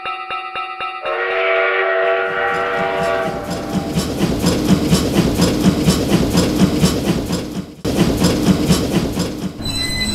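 Railroad crossing bell ringing in fast repeated strokes, cut off about a second in by a train horn that sounds for about two seconds. Then a train rattles past with a rhythmic clickety-clack of wheels over the rail joints. A short high tone comes in near the end.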